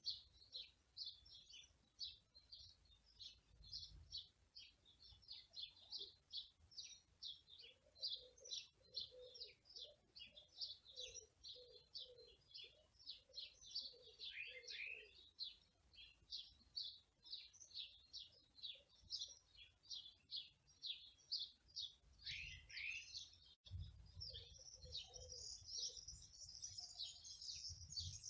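Small songbirds chirping and twittering in a dense, fast run of short high notes, with a lower repeated call in the middle. A low wind rumble comes in near the end.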